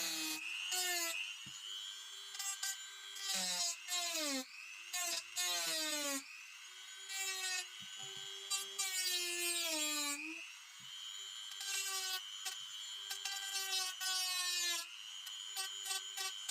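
Small high-speed rotary tool whining steadily, its pitch sagging several times as it is pressed into the work and rising again when it is eased off, with a few brief breaks and clicks.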